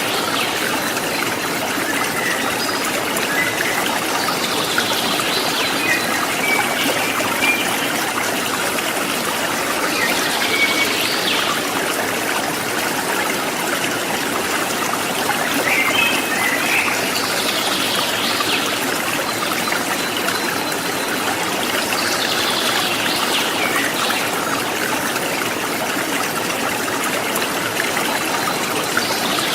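River water running over rocks, a steady rush and trickle, with a few faint short high-pitched calls every few seconds.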